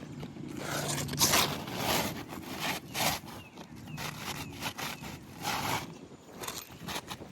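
Scraping and rasping of a tool and hands working under roof shingles to pull out roofing nails, in several separate strokes, the loudest about a second in.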